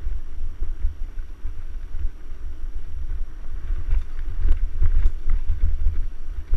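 Wind buffeting the microphone of a camera riding along on a moving mountain bike, a gusting low rumble, with a few sharp clicks and rattles from the bike over the trail about four to five seconds in.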